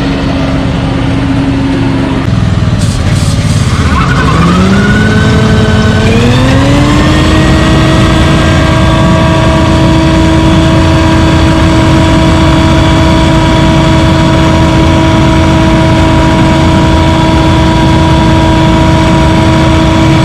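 Scag WindStorm debris blower (37 horsepower, 6,000 CFM) running. About four seconds in it throttles up, its whine rising in pitch for a few seconds, then holds steady at full blast.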